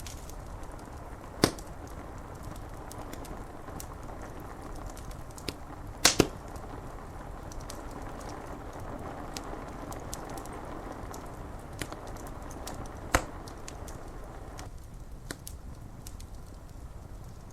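Wood fire crackling with small clicks and a few sharp pops, the loudest a double pop about six seconds in, over a steady hiss of rain on window glass. The hiss thins out a few seconds before the end.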